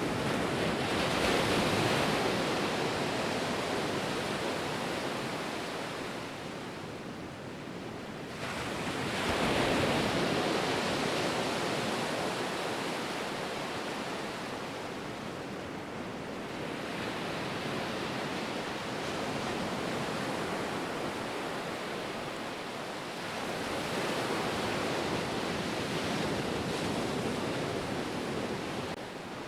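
Ocean surf: waves breaking and washing in, with a fresh surge about every seven to eight seconds, four in all.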